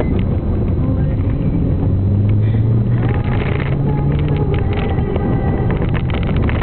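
BMW car engine and road noise heard from inside the cabin while driving on snow. The engine revs climb for a couple of seconds a little after the start, then ease off.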